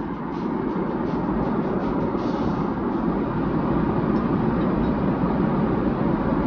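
Steady rumble of airliner cabin noise inside a Boeing 777-300ER, the drone of engines and airflow heard from the passenger cabin.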